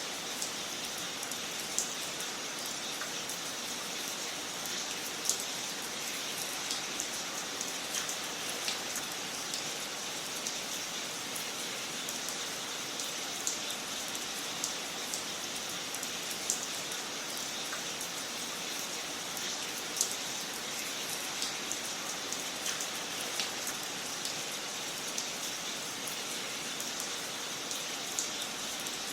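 Fire crackling in a fireplace: a steady hiss with irregular sharp pops and snaps, now and then a louder pop.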